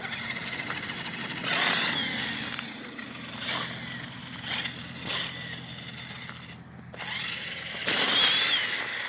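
Electric motor and gear drivetrain of an Axial SCX10 II RC rock crawler whining in several surges as the throttle is worked, with short rises in pitch. The longest surge comes near the end.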